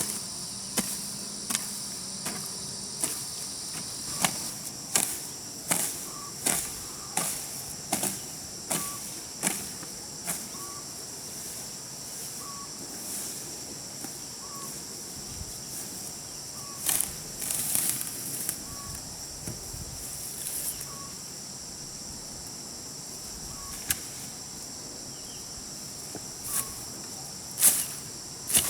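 Garden hoe chopping into grassy soil in steady strokes, about one every three-quarters of a second, then stopping for a while and resuming with a few scattered strokes. Insects buzz steadily throughout.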